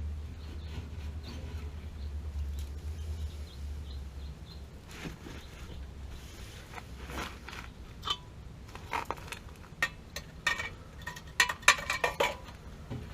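Sharp clicks and knocks of hand work on parts, coming in quick clusters in the second half and loudest near the end, after a low hum stops about four seconds in.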